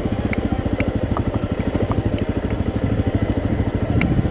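Honda CRF250L's single-cylinder four-stroke engine running steadily at low revs on the trail, with an even, rapid pulsing beat. A few light clicks sound over it.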